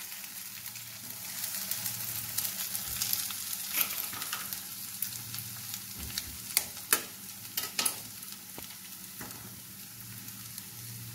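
Chopped onions and green chillies sizzling in coconut oil in a kadai as eggs are cracked into the hot pan, with a few sharp taps and clicks, mostly in the middle stretch.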